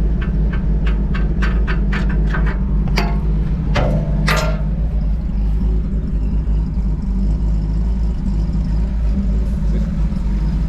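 Ford 250 crossflow straight-six engine idling steadily, with a run of sharp clicks and knocks over it in the first four seconds or so.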